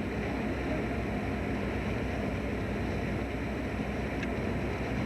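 Fishing boat's engine running with a steady low drone, heard on board.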